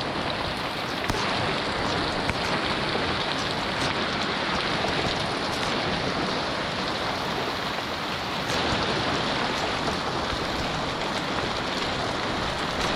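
Heavy rain pouring down steadily, a dense, even hiss of a downpour with a few faint drop ticks.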